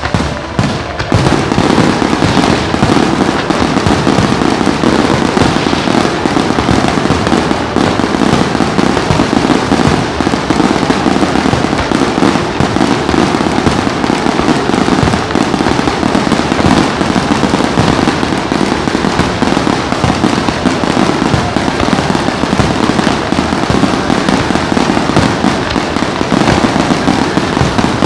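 Fireworks display: a dense, unbroken barrage of rapid bangs and crackling that jumps to full loudness about a second in.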